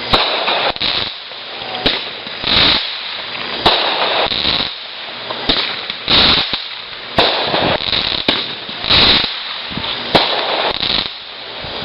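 Consumer fireworks going off in quick succession: sharp bangs mixed with longer noisy bursts about a second long, roughly one every second.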